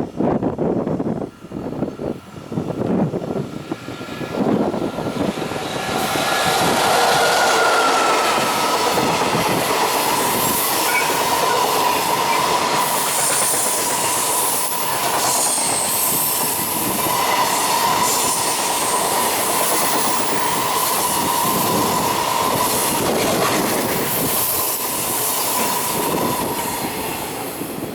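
JR Freight EF65 electric locomotive passing with a long freight train: heavy rhythmic wheel thumps as the locomotive goes by, then a steady clatter of freight wagons with a high squeal held through most of it, fading near the end.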